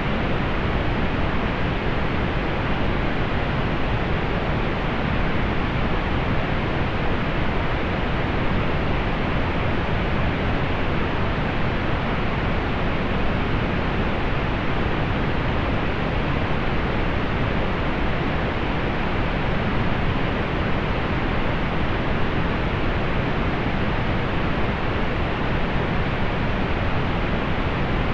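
Steady, unchanging pink noise: an even hiss with a muted top end.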